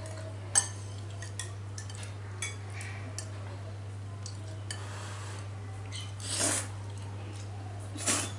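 Tableware clinking during a meal: chopsticks and utensils tapping against bowls and plates, with a sharp clink about half a second in and a few lighter ones after. Two short rushing noises come near the end, over a steady low hum.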